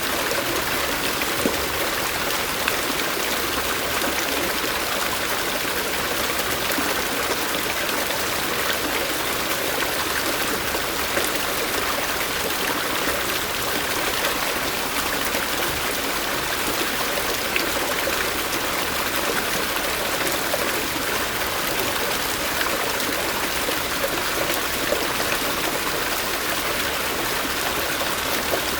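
Mountain stream flowing steadily over rocks, a continuous rush of water with small splashes and trickles.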